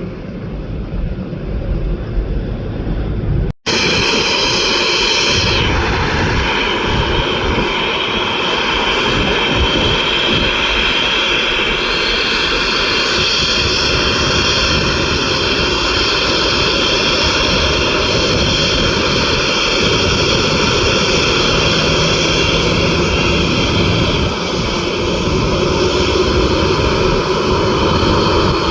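Boeing 737 turbofan engines running loud, a rushing jet noise with a steady high whine over it. This follows a brief dropout about three and a half seconds in; before the dropout there is only wind on the microphone and a low rumble.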